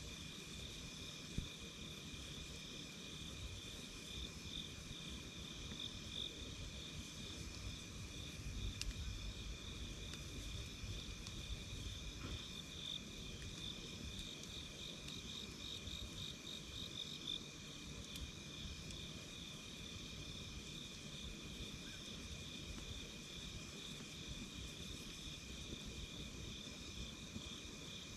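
Crickets and other night insects chirping steadily in a high, continuous chorus at two pitches, with a few faint crackles from a wood campfire over a low rumble.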